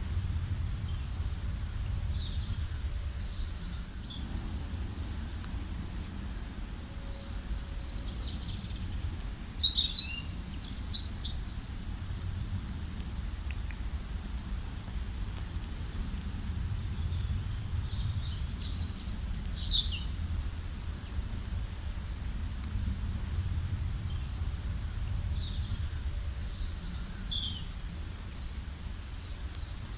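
Several songbirds chirping and trilling in bursts, with the loudest phrases about 3, 10, 19 and 27 seconds in, over a steady low background rumble.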